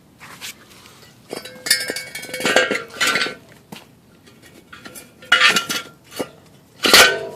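Metal parts of a VW Beetle engine case clinking and clanking as they are handled and set together, in several bursts with a short ringing after the strikes; the loudest clank comes near the end.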